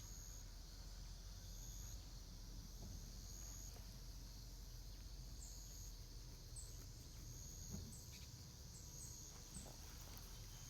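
Insects calling in short high trills that repeat about every two seconds, with brief high bird chirps scattered through, over a low rumble of wind.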